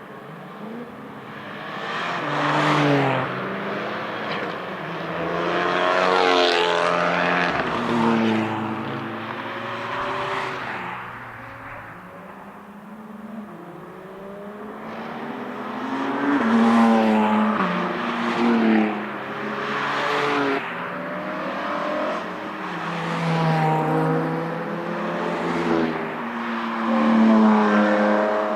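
Racing cars passing one after another, their engine notes swelling and fading with each pass and rising and falling in pitch through gear changes. Among them is a Porsche 992 GT3 RS, whose naturally aspirated flat-six runs through a very loud Brillsteel Edizioni Corsa aftermarket exhaust.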